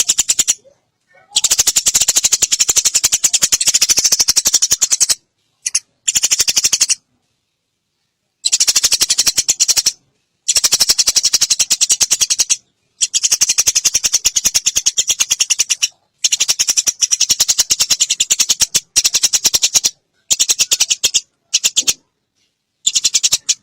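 Eurasian tree sparrows chattering in a fight: rapid, high, rattling chirps in bursts of one to three seconds, cut by short sudden silences.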